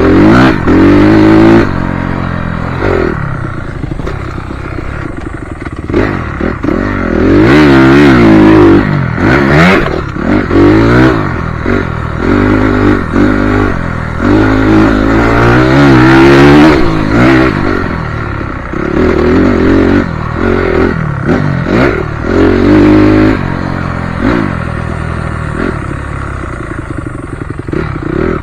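Motocross bike engine being ridden hard around a dirt track, its pitch climbing and dropping again and again as the rider opens and shuts the throttle and shifts gears, with occasional knocks and rattles.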